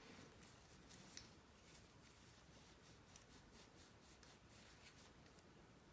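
Near silence, with faint rubbing and a few light clicks from a polishing cloth working over a sonic screwdriver prop.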